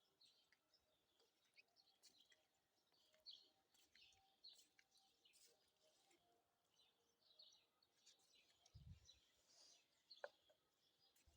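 Small birds chirping faintly, short high chirps scattered throughout with one longer falling call near the end, plus a soft low thump about nine seconds in.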